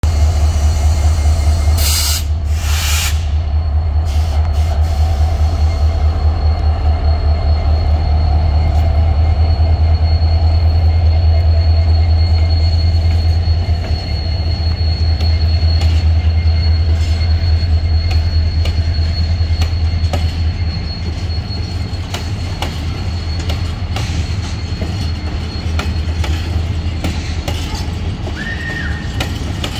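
EMD GT46AC diesel locomotive passing slowly, its 16-cylinder two-stroke engine running with a steady low drone, followed by tank wagons rolling by with wheel clicks and squeals. Two short bursts of hiss come about two seconds in, and the engine drone fades in the last several seconds as the wagons go by.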